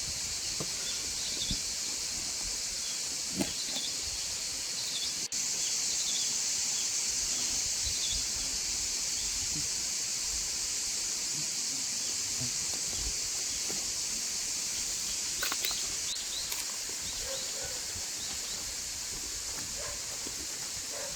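Steady high-pitched hiss of an insect chorus, with a few faint bird chirps early on and scattered small clicks; the hiss gets slightly louder about five seconds in.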